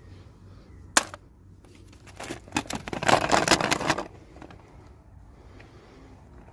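Toy packaging being handled during unboxing: one sharp click about a second in, then about two seconds of dense crackling rustle.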